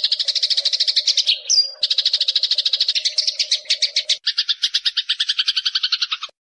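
Eurasian tree sparrow calls played as a training recording: rapid, buzzing trills of fast repeated notes. A single high chirp cuts in about a second and a half in. A second trill starts about four seconds in and cuts off abruptly shortly after six seconds.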